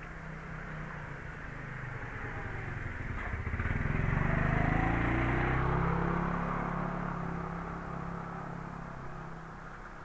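A motor vehicle passing by on the street: its engine grows louder toward the middle, its pitch drops as it goes past, and it fades away near the end.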